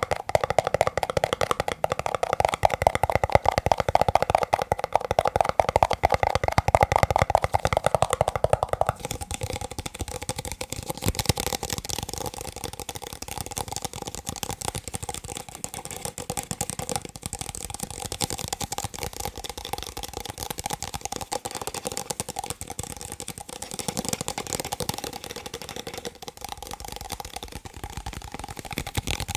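Fast tapping on plastic cups, a dense stream of quick clicks. About nine seconds in the tapping turns quieter and brighter.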